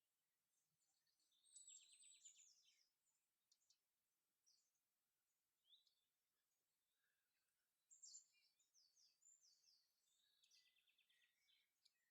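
Faint songbird song: a quick twittering phrase about a second and a half in and another about eight seconds in, with scattered single chirps between.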